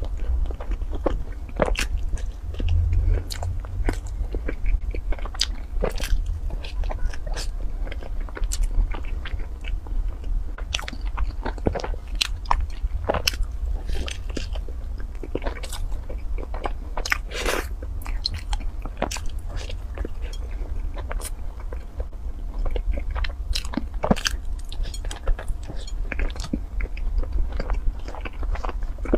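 Close-miked biting and chewing of a soft cream-filled bread bun coated in shredded floss, with many short, sharp mouth clicks throughout.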